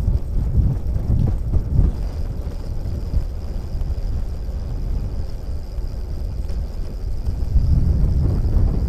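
Wind buffeting the microphone outdoors: a low, fluctuating rumble.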